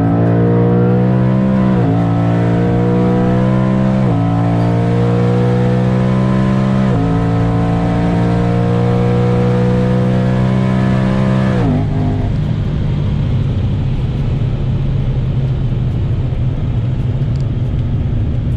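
Twin-turbo Ford Mustang engine at full throttle, heard from inside the car: the engine note climbs and drops back three times as it shifts up through the gears. It keeps climbing until it cuts off about twelve seconds in, leaving a steady lower drone as the car rolls on.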